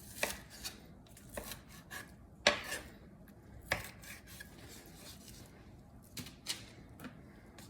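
Kitchen knife slicing raw boneless chicken breast into cubes, the blade knocking on the cutting board in short, irregular taps, the loudest about two and a half and almost four seconds in.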